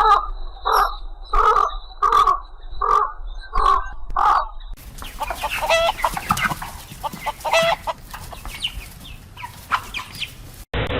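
Chickens clucking: a run of seven short, evenly spaced clucks, then a stretch of higher, drawn-out hen calls over a noisy background. The sound cuts off suddenly near the end.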